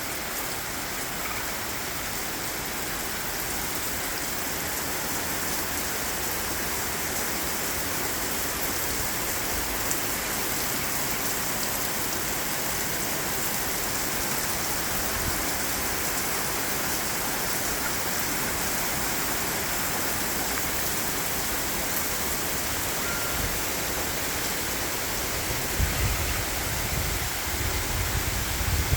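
Steady rain falling hard, an even continuous hiss. Near the end, low rumbling bumps join in.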